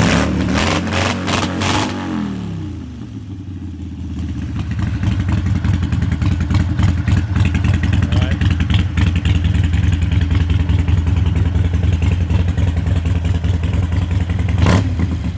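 Harley-Davidson Sportster Forty-Eight's air-cooled V-twin running in neutral: the revs fall off over the first couple of seconds and it settles into a steady idle. One sharp click near the end.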